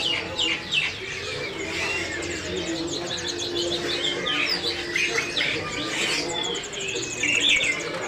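Many caged small songbirds chirping and twittering at once, a dense chorus of short overlapping calls and trills.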